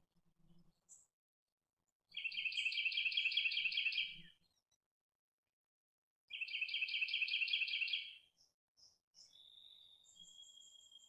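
Songbird singing: two loud trills of rapidly repeated high notes, each about two seconds long, followed near the end by thinner, fainter high whistled notes.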